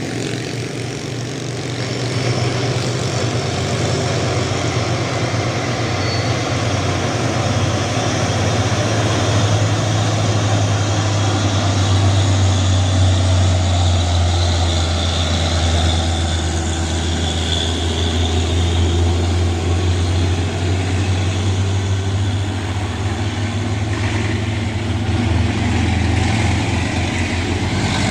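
Heavy truck's diesel engine running under load with a steady low drone, growing louder about two seconds in.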